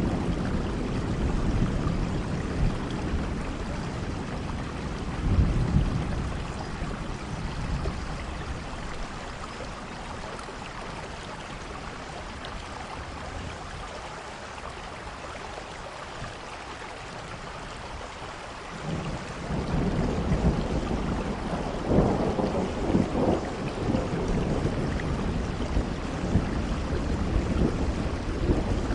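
Thunderstorm: steady heavy rain with rolling thunder. It rumbles at the start, eases to mostly rain in the middle, then a louder roll of thunder builds about two-thirds of the way through, with a sharp crack soon after.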